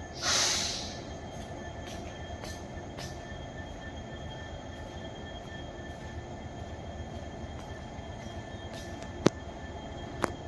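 Train running on rails: a steady rumble with faint, regularly spaced clicks, a short loud hiss at the start, and two sharp clicks near the end.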